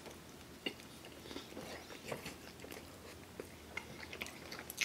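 A person biting into and chewing a mouthful of pepperoni pizza: faint, irregular mouth clicks, with a sharper one about two-thirds of a second in.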